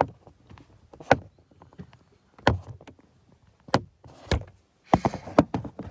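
A series of sharp knocks and clunks, single ones about a second apart, then a quick cluster of them near the end.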